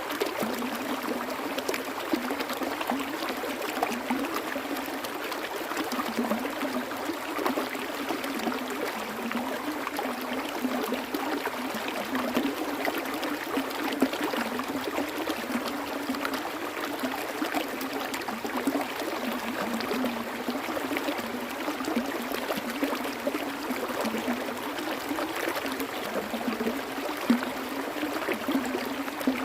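Water running and trickling steadily, with light gurgling, like a small stream over stones.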